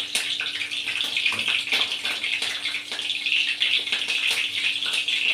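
Green chillies sizzling and crackling in hot groundnut oil in a kadai.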